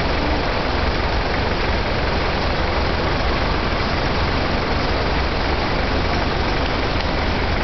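Heavy truck running steadily on a steep mountain descent: a constant low engine rumble under an even wash of road and running noise.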